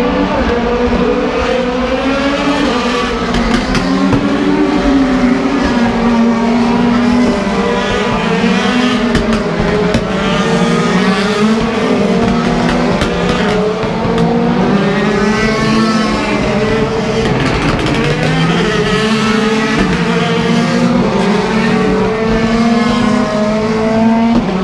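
Several DTM race cars with naturally aspirated V8 engines running hard, their overlapping engine notes repeatedly rising under acceleration and dropping at gear changes and braking as the cars pass.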